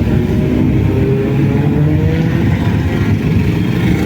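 Motorcycle engines running, one rising slowly in pitch over about two seconds, over a steady low rumble.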